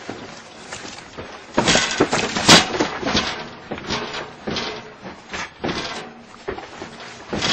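Household objects and fittings rattling and knocking irregularly as the building shakes in a strong earthquake, with a burst of louder clattering about two seconds in.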